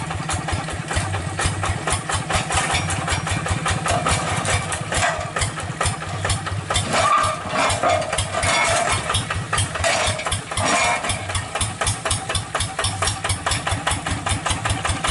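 Hand tractor's single-cylinder diesel engine running steadily, with a fast, even knock of its firing strokes.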